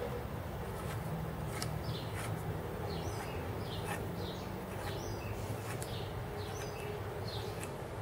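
A bird chirping over and over, short high calls coming about every half second to a second, over a steady low background hum. A few faint clicks sound in the first half.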